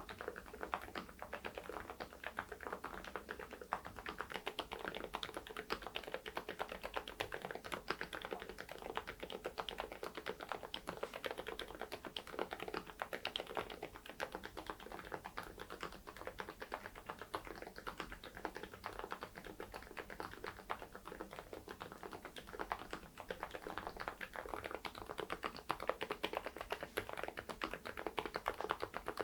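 Typing on an AULA F99MAX mechanical keyboard fitted with silent linear switches and ODOKEY baseball-themed keycaps: a steady run of soft, dense keystrokes.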